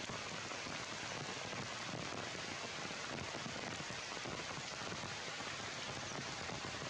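Heavy rain falling steadily on a leafy tree canopy: an even, unbroken hiss.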